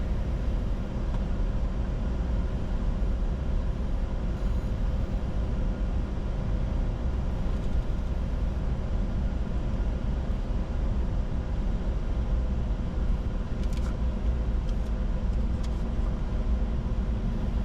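Steady cockpit noise of a Bombardier Challenger 605 business jet descending on approach: airflow and engine rumble, with a faint steady hum on top.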